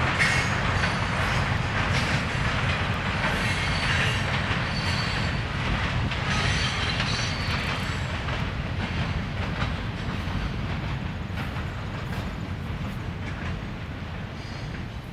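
Train rolling along the track, its wheels rumbling and clacking over the rails with brief high wheel squeals. The sound fades gradually over the second half as the train moves off.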